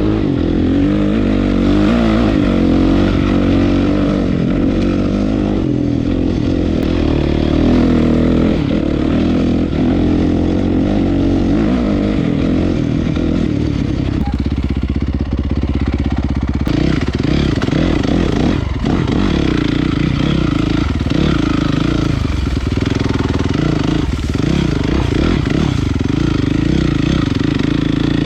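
Honda CRF450's single-cylinder four-stroke engine through an HGS exhaust, running on and off the throttle as the dirt bike is ridden, its pitch rising and falling, with a steadier stretch about halfway through.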